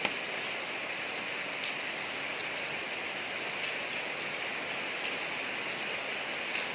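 Steady rain falling on a street: an even hiss of rainfall, with a few separate drops ticking sharply on hard surfaces now and then.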